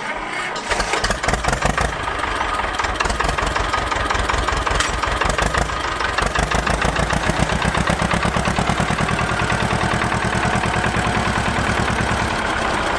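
Small engine of a miniature model tractor running steadily with a fast, even beat.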